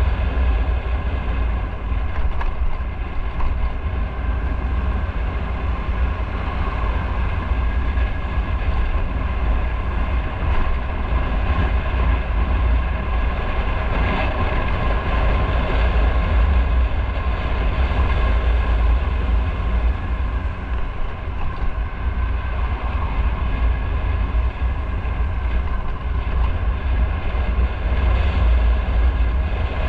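Motorcycle running at a steady cruising speed, its engine note holding steady over a heavy low rumble.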